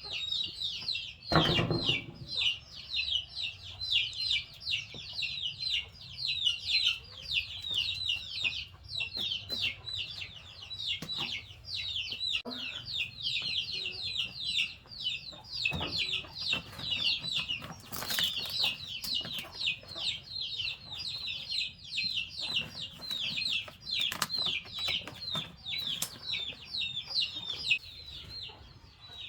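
Many young chicks peeping continuously: rapid, high, downward-sliding peeps, several a second. A dull thump comes about a second and a half in.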